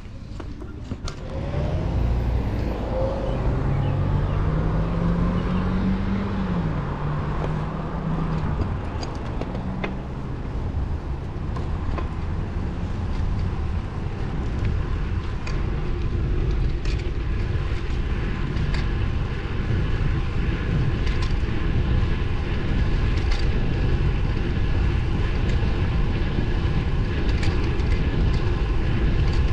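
Wind rumbling on the microphone of a moving road bike, with a motor vehicle passing about two seconds in, its pitch rising and then dropping as it goes by.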